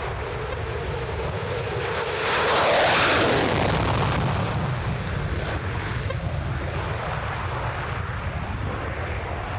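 Jet aircraft engine noise running steadily, with a loud rushing surge about two seconds in that dies back by about four and a half seconds.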